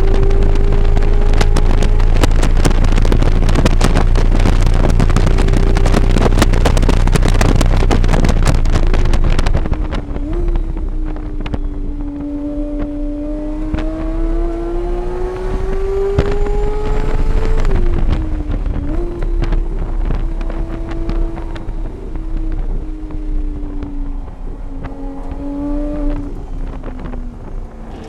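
Engine of a vehicle lapping a race circuit, heard onboard. For about the first ten seconds it runs at full throttle under heavy wind buffeting on the microphone, then it suddenly backs off. It pulls again with a rising pitch, eases off at about eighteen seconds, and picks up again near the end.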